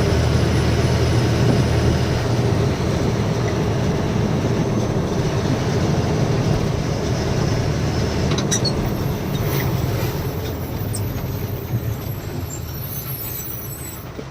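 A loaded truck's diesel engine and road noise heard from inside the cab while driving, a steady low drone. Over the last few seconds it eases off and grows quieter as the truck slows down.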